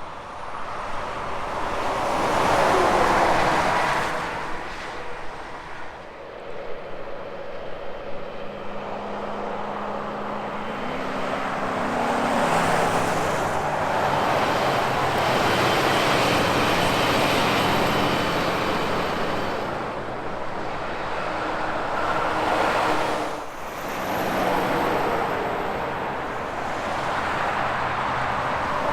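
Highway traffic passing close by, one vehicle after another: a loud pass a few seconds in, then the steady drone of a heavy truck's engine through the middle with its pitch stepping, and another vehicle coming up near the end.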